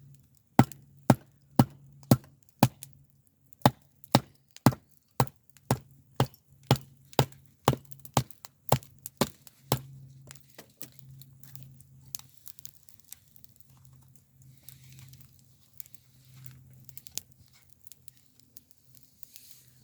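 Knife being batoned through a piece of firewood: a steady run of sharp wooden knocks, about two a second, for roughly the first ten seconds. After that come softer, scattered clicks and cracking as the wood splits apart.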